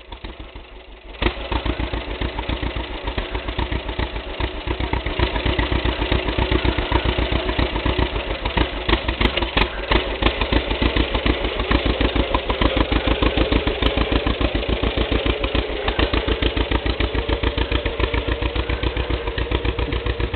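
John Deere tractor engine running with a steady, even chugging; about a second in it jumps sharply louder as the throttle is opened to drive off.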